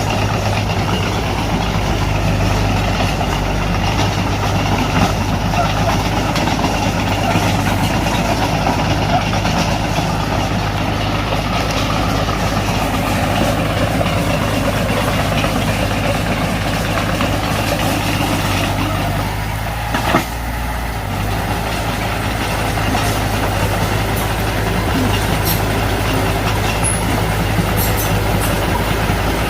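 Diesel engine of heavy earthmoving machinery running steadily, with a single knock about twenty seconds in.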